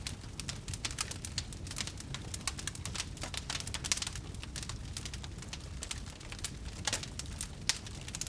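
Wood fire crackling in a fireplace: many small, irregular pops and snaps over a low steady rumble of the flames, with a few sharper pops about four seconds in and near the end.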